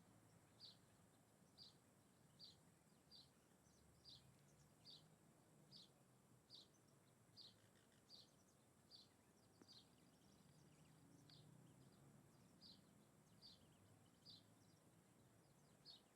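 A single bird calling faintly, repeating one short high chirp about every 0.8 seconds at an even pace.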